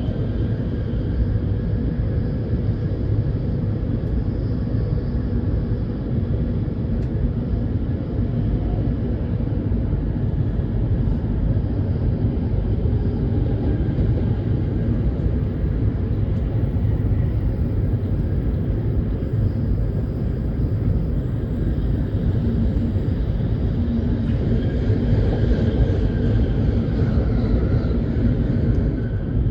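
Shinkansen bullet train running at speed: a steady, even rumble that holds unchanged throughout.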